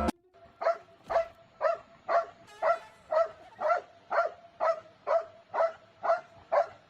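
A dog barking in a steady, even rhythm, about two short barks a second.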